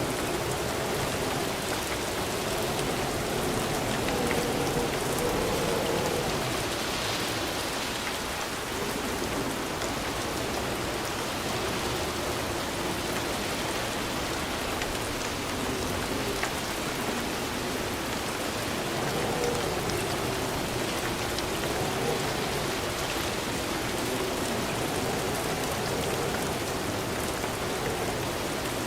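Steady rain falling, an even dense patter, with a lower rushing undertone that slowly swells and eases every several seconds.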